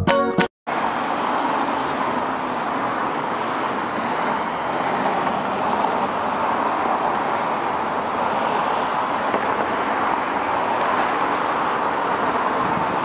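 Steady noise of city street traffic, an even continuous rush with no distinct events, starting just after a cut.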